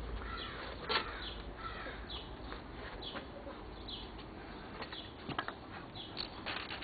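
Birds chirping faintly in short, scattered calls, with a few brief clicks.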